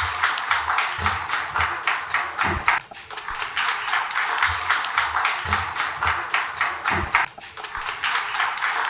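Audience applauding over background music with a low, beating bass.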